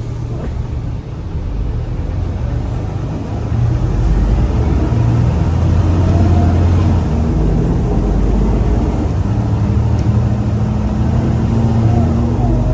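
Scania L94UA city bus engine running under load as the bus pulls away, getting louder about three and a half seconds in as it accelerates. A drivetrain whine rises slowly in pitch near the end.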